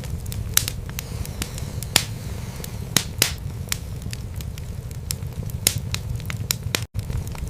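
Wood fire in a fireplace crackling: sharp, irregular pops and snaps over a steady low rumble of the burning logs. Near the end the sound cuts out for a split second.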